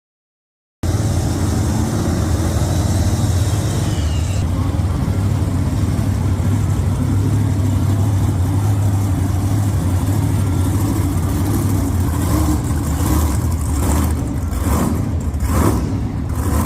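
Monster truck engines running loud in an arena: a deep, steady rumble, with a short falling whine about four seconds in. Voices come in near the end.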